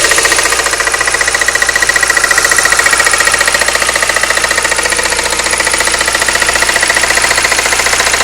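Volkswagen Golf Mk3 engine running steadily, with a rapid, even knocking from the alternator area and a steady high-pitched whine.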